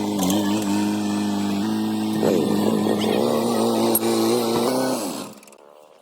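Engine of a heavy vehicle running steadily, its pitch stepping slightly partway through and its tone sweeping around the middle, then cutting off abruptly near the end.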